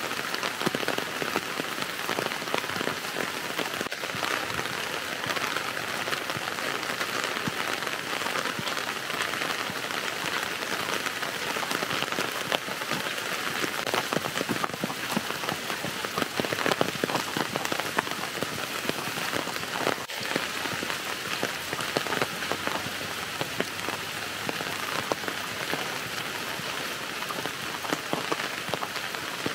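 Steady rain falling: a dense, even pattering of drops.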